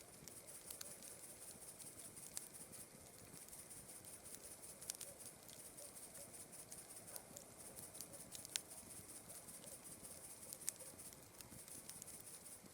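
Campfire crackling, with scattered sharp pops, over a steady high chirring of night insects.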